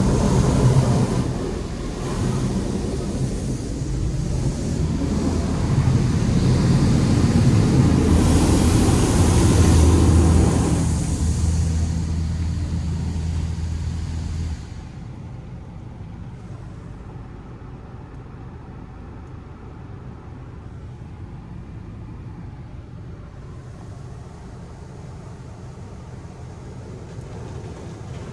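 A Pro Navigator touchless in-bay car wash running, with a steady motor hum under hissing spray that swells in the middle. About halfway through the machine cuts off sharply, leaving a much quieter steady hum.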